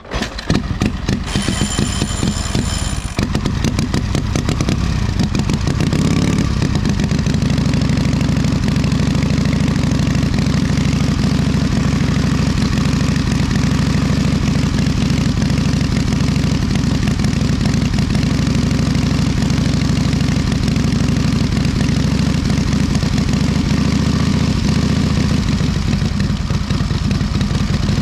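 1928 Indian 101 Scout's side-valve V-twin engine on a cold start: it is kicked, fires at once and runs unevenly for a few seconds, then settles into a steady idle.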